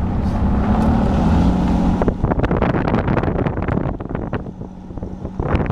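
Vehicle engine and road noise running as a steady low hum, with wind on the microphone. About two seconds in, a dense run of crackling clicks starts and lasts a few seconds while the hum fades back.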